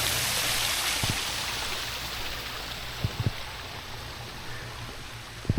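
Outdoor fountain water splashing in a steady hiss that grows fainter over a few seconds, with a few soft low knocks.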